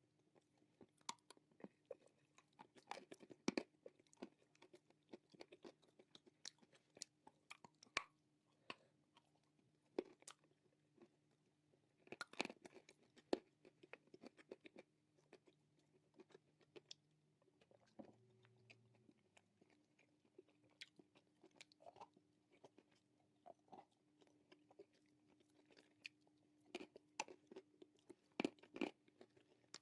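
Close-miked crunching and chewing of dry nakumatt clay, with many sharp, irregular crunches.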